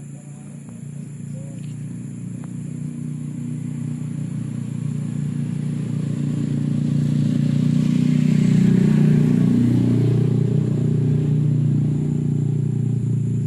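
A motor vehicle's engine running and drawing closer, growing louder to a peak about two-thirds of the way through as it passes close by, then easing slightly.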